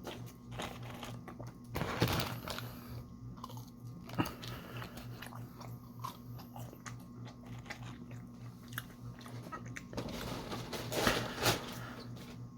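Close-miked eating: bites and chewing with crunching and wet clicks of the mouth, the loudest crunching about two seconds in and again for a second or so near the end.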